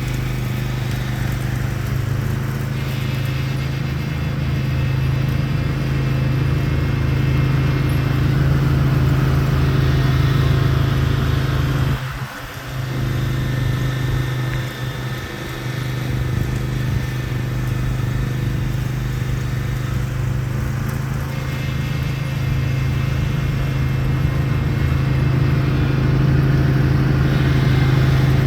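Craftsman YT4000 lawn tractor's engine running steadily at working speed while it drives a front-mounted Bercomac 44-inch snowblower. The engine sound briefly drops away about twelve seconds in, and again a little later.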